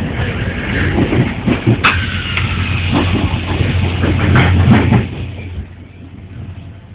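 Diesel-hauled passenger train running with a steady low rumble, knocks and clatter from the running gear and a faint squeal, growing quieter about five seconds in.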